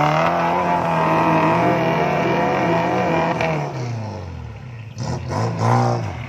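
Suzuki Jimny engine revving hard under load as it climbs a muddy rut in two-wheel drive (4x2). The revs hold high for the first three seconds or so, fall away at about four seconds, then pick up again in short bursts near the end.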